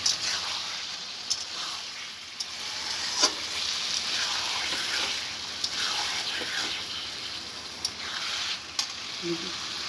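Chicken and masala sizzling as they are fried in a kadhai (wok) while a metal spatula stirs and scrapes them, with scattered sharp clicks of the spatula against the pan.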